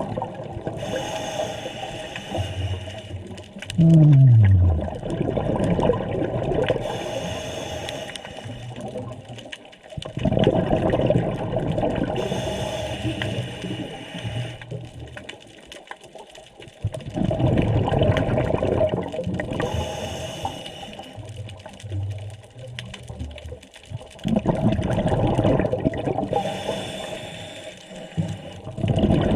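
Scuba diver breathing through a regulator underwater: a rush of exhaled bubbles every six to seven seconds, quieter between breaths. A short falling moan is heard about four seconds in.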